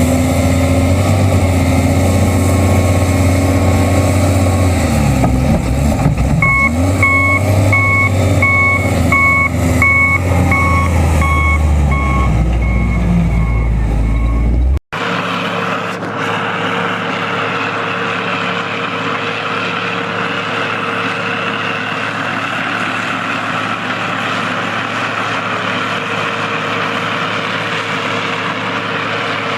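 Heavy snow-removal machine's engine running loud and low, with a reversing alarm beeping about one and a half times a second for several seconds midway. Halfway through it cuts abruptly to another machine's steady engine with a rushing noise over it.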